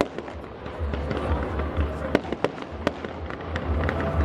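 Aerial fireworks going off: a few sharp bangs from bursting shells, the loudest about two seconds in, with scattered crackling between them, over a steady low rumble.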